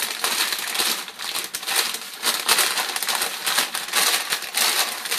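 Paper lunch bag with popcorn kernels and coconut oil inside, crinkling and crackling steadily as it is squeezed and kneaded by hand to coat the kernels with oil.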